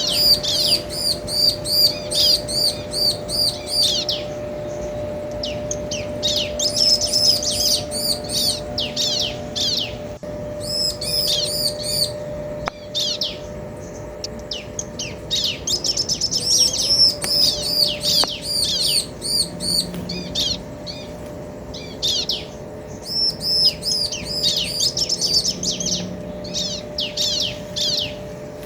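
Bar-winged prinias, male and female, calling back and forth: rapid runs of high, chirping notes that come in bursts separated by short pauses.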